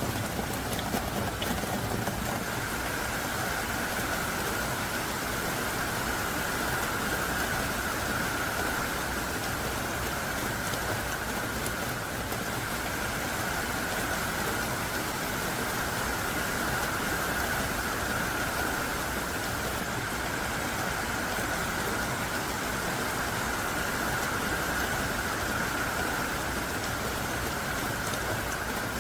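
Heavy downpour of large, thick raindrops falling hard and steadily, a dense even hiss of rain.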